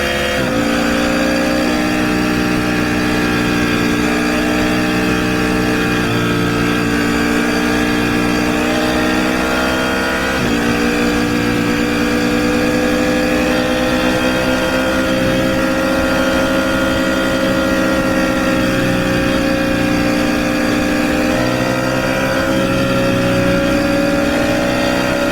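Motorcycle engine running under way at a steady cruise, its pitch creeping slowly upward. The pitch steps suddenly about half a second in and again about ten seconds in, as gears change.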